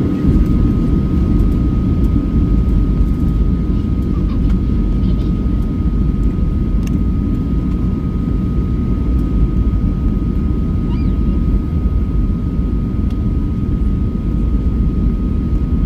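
Steady cabin noise of a Boeing 737-800 in flight: a loud, even low rumble of engines and airflow, with a faint steady whine riding above it.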